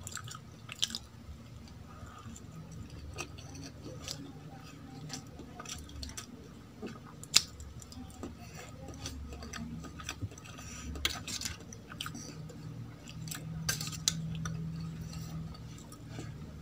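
Close-miked eating of soft idli with coconut chutney: quiet chewing with scattered sharp clicks and smacks, the sharpest about seven seconds in, over a steady low hum.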